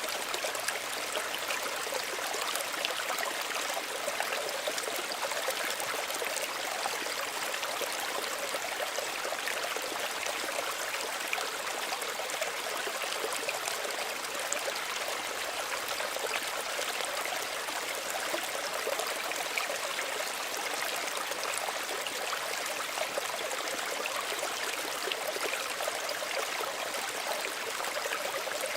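Small stream of running water, trickling and burbling steadily without a break.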